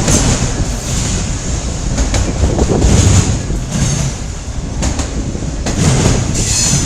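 A CN freight train's cars rolling past, with their steel wheels clacking over rail joints in irregular clicks.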